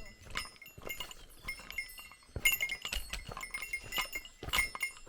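A small metal bell, the kind hikers carry against bears, jingling in irregular clinks with each step, along with footfalls on the trail.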